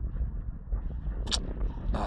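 Low, fluctuating rumble of wind buffeting the microphone, with one short sharp click just over a second in.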